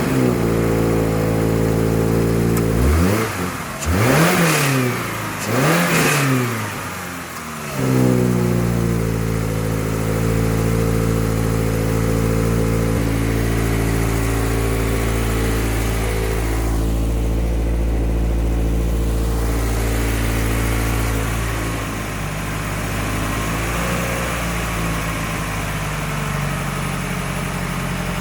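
2025 Subaru BRZ's 2.4-litre flat-four boxer engine idling, revved three times in quick succession a few seconds in, each rev rising and falling back, then settling into a steady idle.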